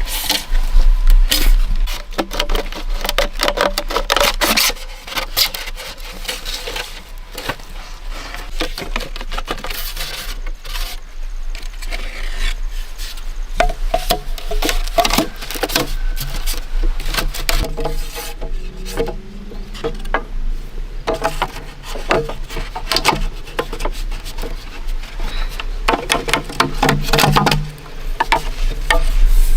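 Hand work on wooden poles: many quick knocks and scraping of wood, as crossbars are pushed into holes in the posts and the holes are trimmed to fit.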